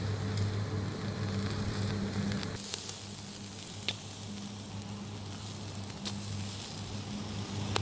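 Food sizzling in a frying pan, with a few sharp pops.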